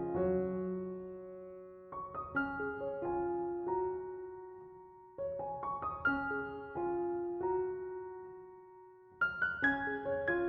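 Slow, gentle solo piano music: short phrases of struck notes that ring and fade, a new phrase starting about every three to four seconds.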